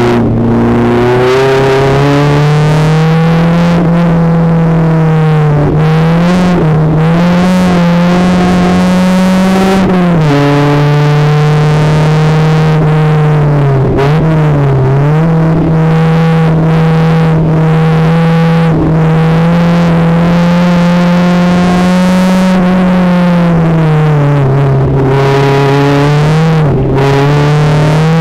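Renault Twingo race car's engine heard from inside the cabin, running hard at high revs. Its pitch drops clearly about ten seconds in and again near the end, and dips and climbs back briefly in between, as the driver lifts and shifts.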